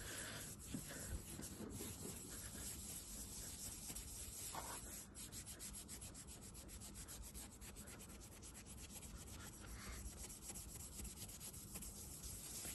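Cloth rubbing Autosol metal polish onto a small metal engine part by hand, faint, in quick, even back-and-forth strokes.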